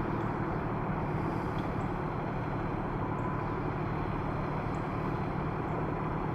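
Steady low rumble of a large vehicle's engine running, with no siren sounding.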